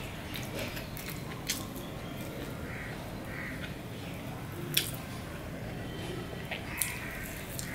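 Close mouth sounds of a man chewing a fried semolina cake (sujir pitha), with three sharp lip-smacking clicks, the loudest about halfway through.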